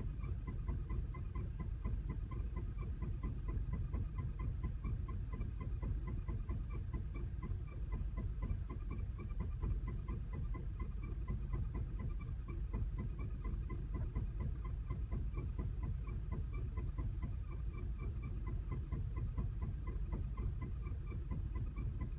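2010 Volkswagen CC engine idling roughly, with a steady low rumble and a regular light ticking of a few ticks a second; the rough idle comes with a flashing check engine light.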